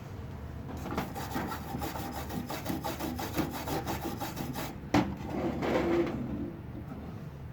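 Quick scratchy scraping and rubbing strokes, with a sharp click about five seconds in.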